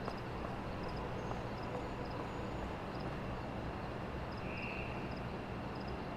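Steady ambient background hiss with a low hum, over which faint, short, high double chirps repeat every half second to second, like night insects.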